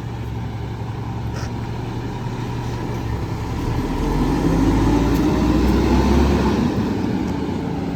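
Garbage truck's diesel engine running, getting louder about four seconds in and easing off near the end.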